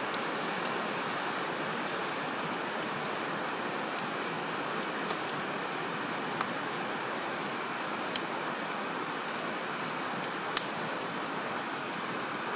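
Wood fire burning with a steady hiss, dotted with sharp crackles and pops. The two loudest pops come about eight and ten and a half seconds in.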